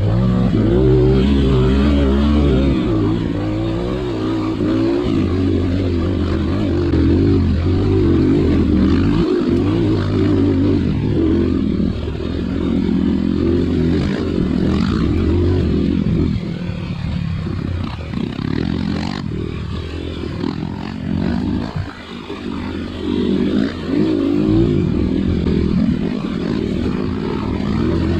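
Trail motorcycle engine running and revving up and down as it rides. It eases off and runs rougher for several seconds about two-thirds of the way through, then picks up again.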